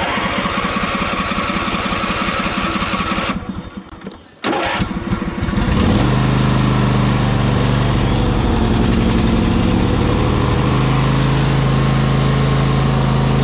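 Craftsman YT4000 riding lawn mower engine being started: the starter cranks for about three seconds and stops, cranks again, and the engine catches about six seconds in, then runs steadily.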